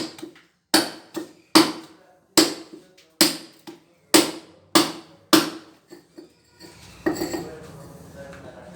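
Small hammer striking a chisel, chipping old ceramic wall tiles and damp-rotted backing off a wall: about eight sharp, ringing blows roughly two-thirds of a second apart, then a steadier rough noise near the end.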